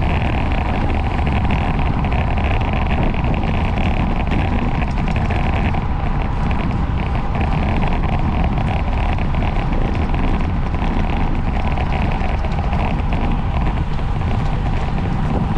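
Steady wind rush over the microphone and road rumble from a bicycle riding at race speed.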